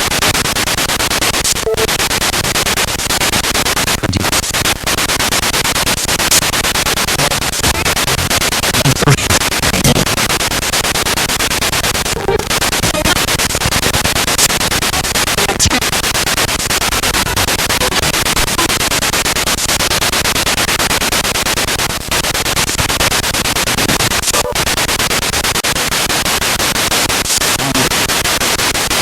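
Spirit box radio sweeping through stations: loud, continuous static hiss, cut by many brief dropouts and short scraps of chopped-up broadcast sound.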